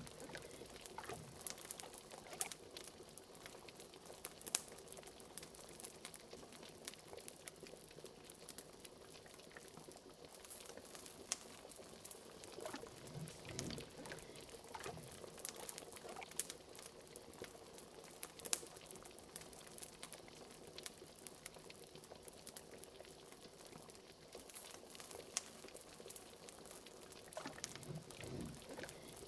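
Liquid bubbling at a boil, with the scattered crackles and pops of a wood fire over it. Low, gurgling bubbles come up now and then among the crackles.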